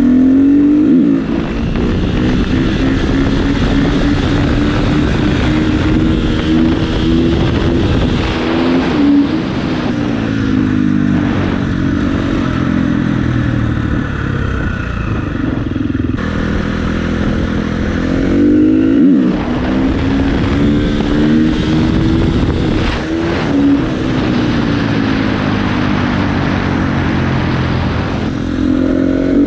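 Dirt bike engine running under way, its revs climbing and dropping again and again as the throttle is opened and eased off.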